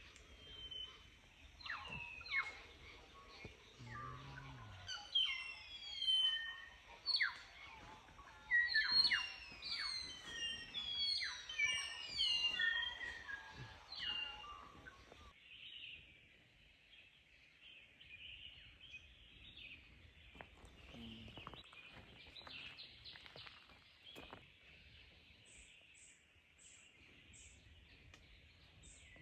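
Wild birds calling in woodland, a busy run of clear whistled notes that mostly slide downward. After about fifteen seconds the whistles stop and a steadier, fainter high chorus carries on, with a few short high chirps near the end.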